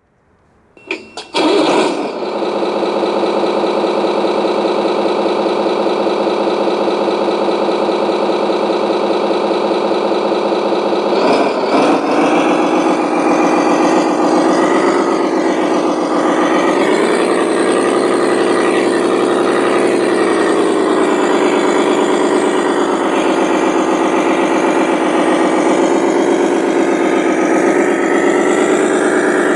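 Truck engine sound from an RC model truck's sound module, starting up about a second in and then running at a steady idle. Its pitch rises and falls gently for a few seconds around the middle, as if the engine is revving lightly.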